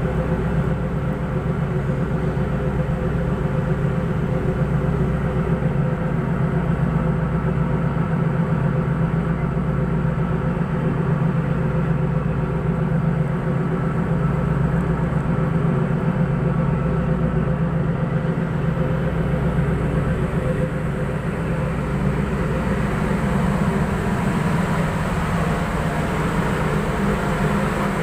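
A boat engine running steadily under way, a constant low drone with no change in pace.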